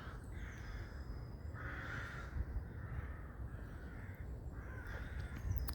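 Crows cawing: several harsh caws a second or two apart, the loudest about two seconds in.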